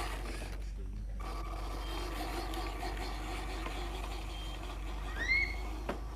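Small electric motor and gearbox of a fully loaded RC truck whining steadily as it strains uphill. It cuts out briefly about half a second in and starts again just after a second. Near the end a short high call sounds.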